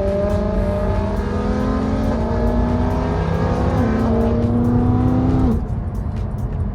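BMW E92 M3's 4.0-litre V8 pulling hard under acceleration, its revs climbing steadily for about five seconds, then the throttle lifts suddenly.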